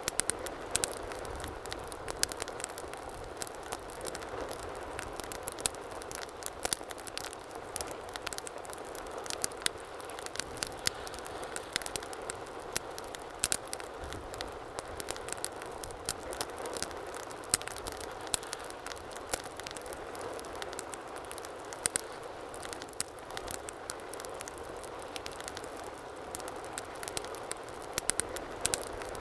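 Fire crackling in a fireplace: a steady rushing hiss of flame with frequent sharp, irregular pops and snaps throughout.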